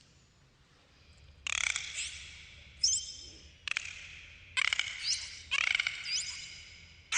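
Dolphins whistling and clicking: short upward-gliding whistles mixed with rapid click trains and buzzy pulse bursts. The bursts start about a second and a half in and come again every second or so.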